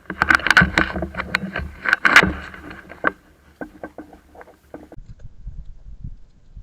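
Close rustling and crackling with many sharp clicks, loudest about half a second and two seconds in, dying down after about five seconds to a low rumble: the sound of a player moving through woodland undergrowth and brushing against the microphone.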